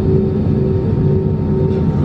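Steady low rumble of an Airbus A320's engines and air systems heard inside the passenger cabin, with a steady hum running through it.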